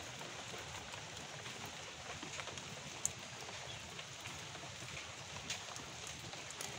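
Light rain pattering steadily, with scattered small ticks and one sharp click about three seconds in.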